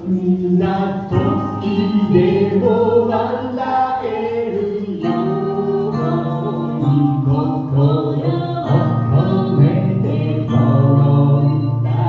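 A song performed live: singing over music, sung continuously and loudly with sustained low notes beneath the voice.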